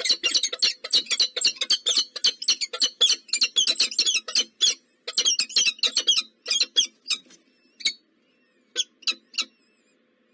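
Nestlings in the nest chirping in a rapid run of short, high-pitched squeaks, many a second, that thins out to a few scattered chirps and stops near the end.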